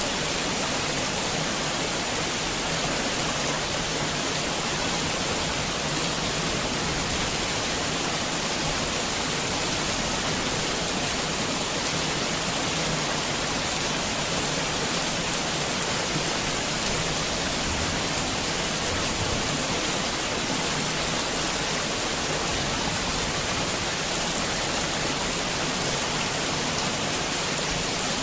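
Steady heavy rain falling, an even hiss of drops with no thunder or other events.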